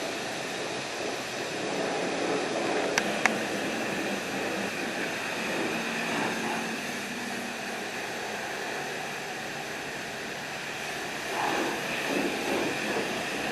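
High-pressure wand at a self-service car wash spraying water onto a truck: a steady hiss of spray, with two sharp clicks about three seconds in.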